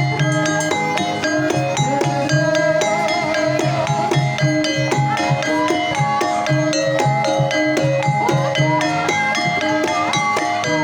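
Javanese gamelan music: bronze metallophones strike a dense pattern of ringing notes over regular kendang drum strokes, while a sinden's voice carries a wavering melodic line.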